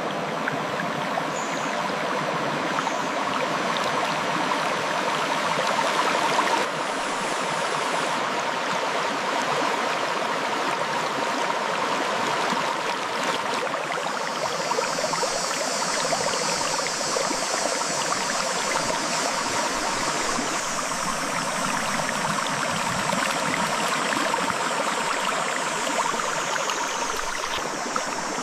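River water flowing and rushing over rocks in a steady stream. About halfway through, a higher hiss joins in.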